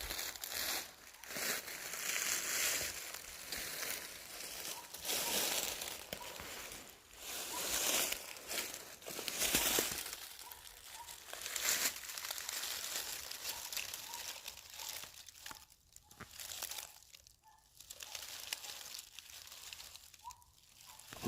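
Irregular rustling and crunching noises coming in uneven surges, with a few short quieter gaps near the end.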